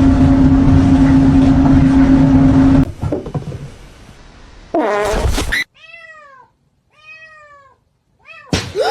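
A cat meowing: a wavering call, then a series of short rising-and-falling meows about a second apart. Before them, a loud steady hum plays for about three seconds and cuts off suddenly.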